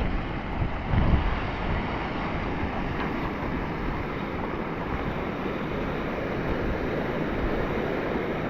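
Steady rush of the Kirkjufellfoss waterfall mixed with wind buffeting the microphone, with a stronger gust about a second in.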